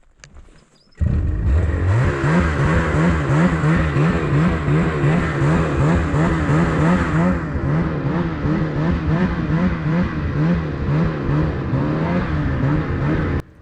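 Snowmobile engine running hard under way, its pitch rising and falling in quick waves. It starts abruptly about a second in and cuts off near the end.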